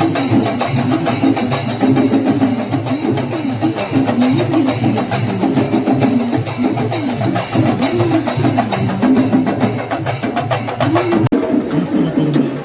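Festival drum ensemble playing fast, busy strokes, with a wavering melody line over the drumming. The sound drops out for an instant about eleven seconds in, then carries on.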